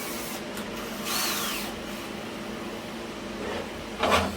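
Cordless drill spun briefly, its whir rising and then falling in pitch, over a steady low hum. A short noisy burst comes near the end.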